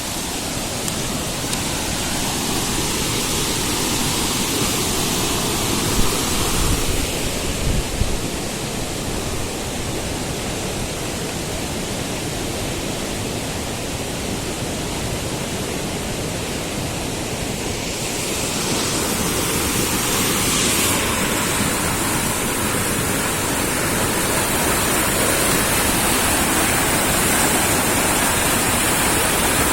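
Steady rushing of a river in flood, fast floodwater pouring past, with a few low bumps about six to eight seconds in.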